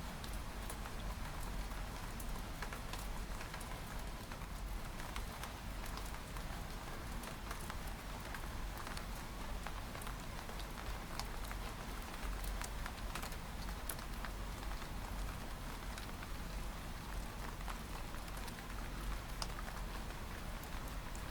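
Steady rain with many small raindrops tapping on window glass, over a low steady rumble.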